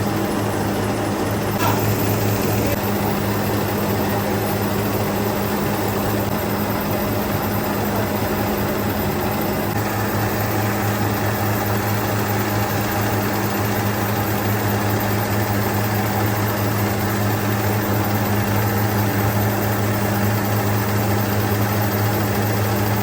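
Steady running of factory machinery in a copper recycling and wire plant: a constant low hum at an even pitch under a dense mechanical noise, with a brief click about a second and a half in.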